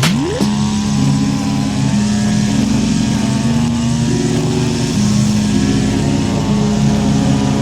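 Scag riding mower's engine running steadily under load, its pitch wavering slightly.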